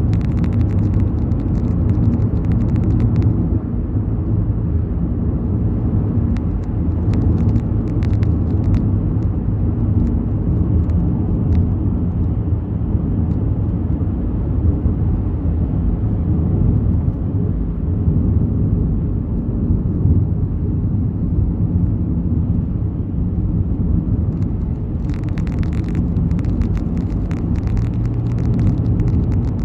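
Steady low road and engine rumble inside a moving car's cabin, with clusters of faint light clicks near the start and again near the end.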